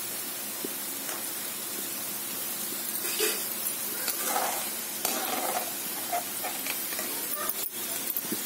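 Gram-flour-battered ivy gourd pieces sizzling in hot oil in a steel kadai, with a slotted steel spoon scraping and stirring through them, a few scrapes loudest about three to five seconds in. The pieces are fried crisp and done.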